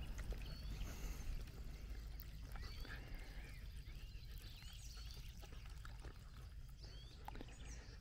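Faint bird chirps, short and scattered throughout, over a steady low rumble of outdoor background noise.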